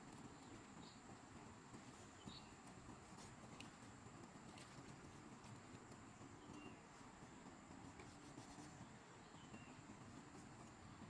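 Near silence: faint outdoor background with a steady thin high whine and a few brief, faint high chirps scattered through it.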